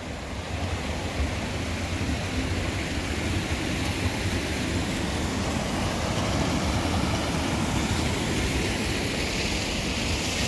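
Steady rushing of a stream or small waterfall, a constant noise with a deep rumble underneath, swelling slightly after about a second.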